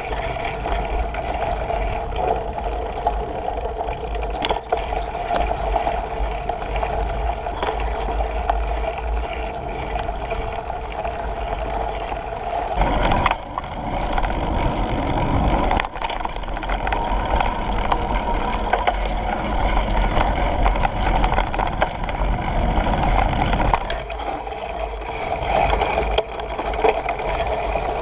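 Bicycle in motion: a steady hum with rattling and occasional sharp knocks, over a heavy low rumble of wind on the microphone.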